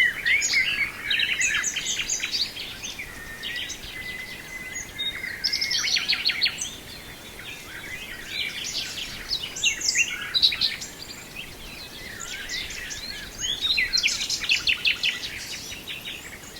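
Common nightingale singing a long, varied song: rapid repeated trills and chattering phrases, with a long held whistle about two seconds in.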